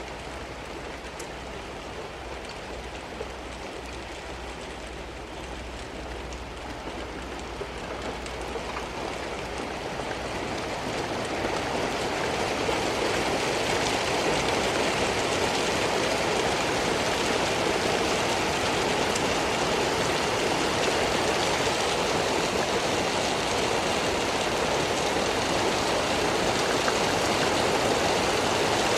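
Steady rain falling, swelling louder from about eight to twelve seconds in and then holding steady as a heavier downpour.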